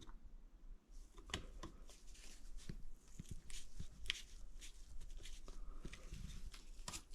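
Faint, scattered clicks and light knocks of hand tools and metal parts being handled while an engine is taken apart.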